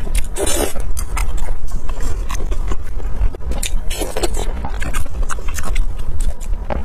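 Close-miked eating sounds: wet chewing and mouth clicks as food is bitten off skewers and chewed, over a steady low rumble.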